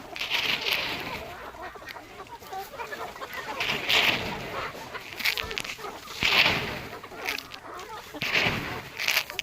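A flock of young desi (Indian native) chickens clucking and calling, a busy chatter with about five louder calls standing out at irregular moments.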